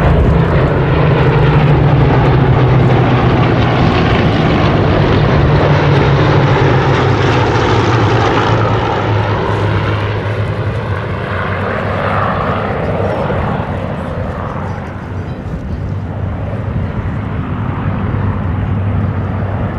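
Hawker Hurricanes' Rolls-Royce Merlin V12 engines droning in a formation flypast. The engine note drops in pitch about six seconds in as the aircraft pass, and the sound stays loud throughout.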